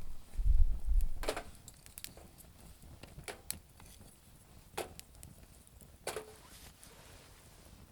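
Campfire of damp firewood crackling, with a few sharp, isolated pops spaced a second or more apart. A low rumble lasting about half a second comes just after the start and is the loudest sound.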